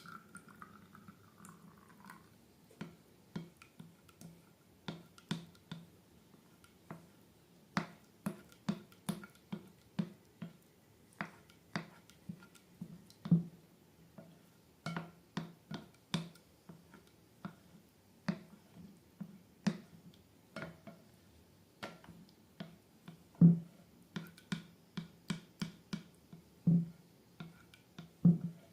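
Slime being squeezed and kneaded by hand, giving short sticky pops and clicks at irregular intervals, about one or two a second, some louder than others.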